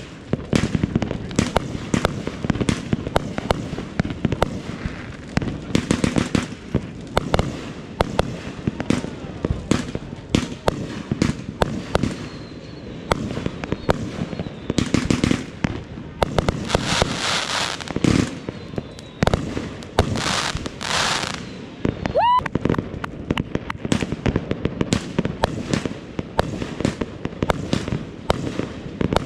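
Fireworks going off in a dense run of sharp cracks and bangs, with hissing bursts about seventeen and twenty seconds in and a short whistle about twenty-two seconds in.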